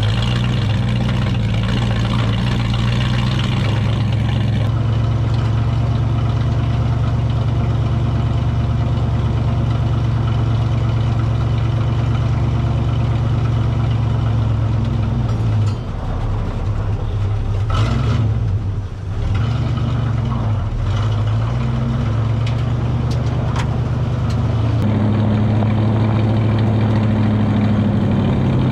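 A 1938 Chevrolet Master Deluxe coupe dirt-track modified race car under way, its V8 running steadily through the exhaust. The engine note dips and then comes back a little past halfway.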